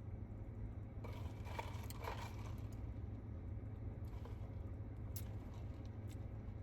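Steady low hum of a car's cabin with the engine running, with a brief faint rustle about a second in and a few small clicks later.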